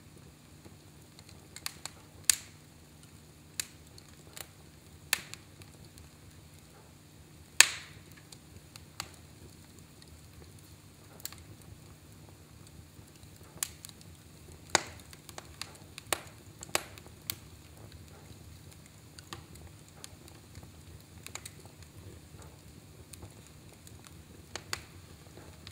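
Fire crackling in a fireplace: irregular sharp snaps and pops, the loudest about eight seconds in, over a faint low steady hum.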